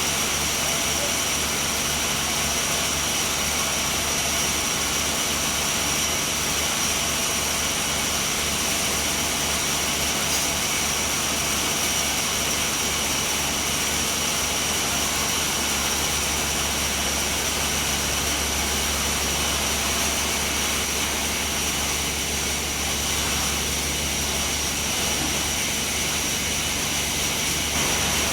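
Sawmill saw running steadily, with a constant high whine over a low machine hum.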